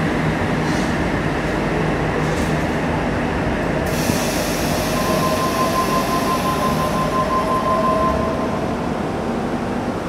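Double-deck Sydney Trains electric passenger train running out of an underground platform, with a steady wheel squeal from about halfway through to near the end.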